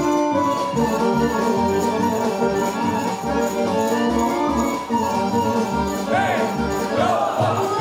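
Traditional Serbian folk dance music with sustained melody notes over a steady pulsing bass beat. Briefly near the end, high pitches glide up and down over the music.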